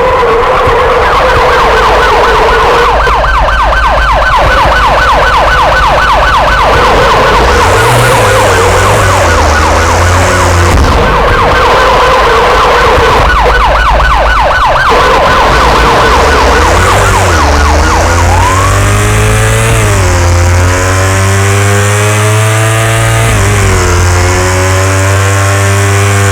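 KTM Duke 390 motorcycle engine held at high revs with a rapid pulsing for a long stretch, then revving up and down over the last several seconds.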